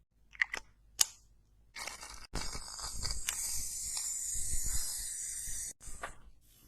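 ASMR sound effects: a few sharp clicks, then a steady high hiss lasting about three and a half seconds, then a few more clicks.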